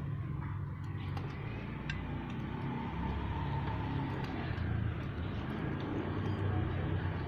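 Motor vehicle traffic with a steady low engine hum, as vehicles run on a road.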